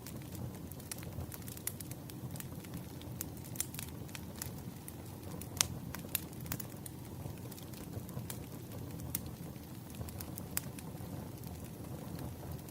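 Campfire burning: a steady low rumble of flames with frequent irregular sharp crackles and pops from the burning wood, one louder pop about halfway through.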